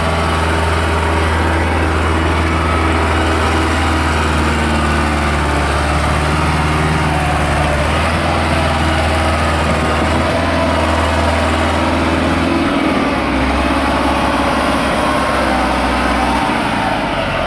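Massey Ferguson 385 tractor's diesel engine running steadily. Its note drops a little about twelve seconds in and again near the end.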